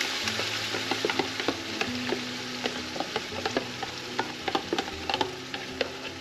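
Sauce frying in an aluminium pot, sizzling with many small pops, as crushed, pre-boiled tomato is poured in from a plastic container.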